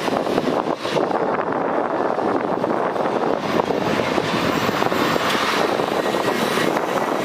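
Jet airliner engines running, a steady loud rushing noise, with wind gusting on the microphone in the first second or so.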